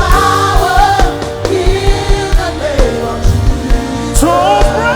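Live gospel worship music: a sung vocal line over a band's held chords and a steady low drum beat of about two pulses a second.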